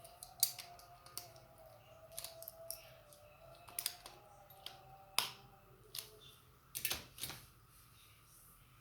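Irregular sharp clicks and scrapes of a tool working on the plastic case of an Apple 85 W MagSafe 2 charger as it is pried open.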